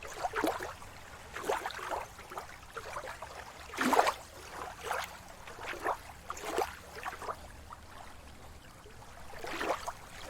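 Sea water lapping and splashing in small, irregular surges about a second apart, the strongest about four seconds in.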